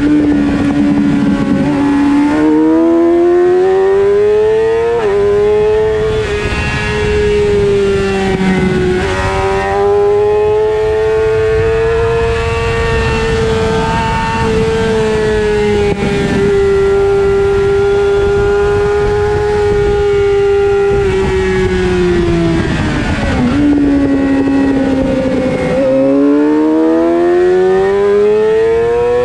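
Suzuki GSX-R600 inline-four engine heard onboard at racing speed, with constant wind rush: the note climbs through the gears over the first few seconds, holds high and steady for a long stretch, falls sharply about two-thirds of the way through as the revs drop, then climbs again under acceleration near the end.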